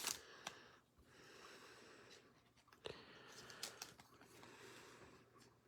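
Near silence with a few faint clicks and rustles of a trading card being handled in a plastic sleeve or top loader.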